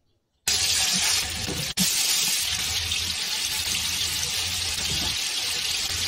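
Oil sizzling steadily as tandoori-marinated chicken drumsticks shallow-fry in a grill pan. The sizzle starts abruptly about half a second in and breaks off for a moment just before two seconds in.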